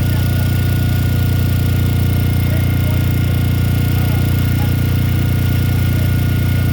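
Machinery running steadily: a constant low engine-like drone with a faint steady high whine above it, not changing in pitch or level.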